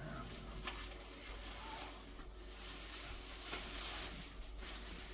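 Faint handling noises: rustling and a few light clicks as items are moved about.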